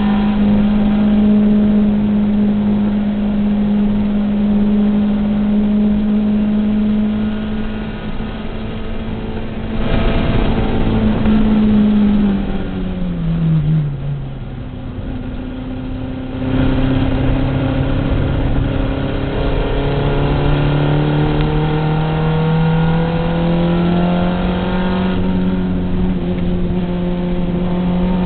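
Race car engine heard from inside the cabin, held at high revs, with a louder rushing noise about ten seconds in. A few seconds later the revs fall steeply as the car slows for a corner, stay low and quieter for a couple of seconds, then climb steadily again as it accelerates out.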